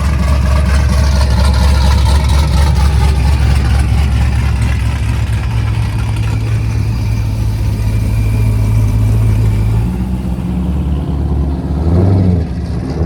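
A truck engine idling loudly with a steady low rumble. About twelve seconds in it gives a quick rev up and back down.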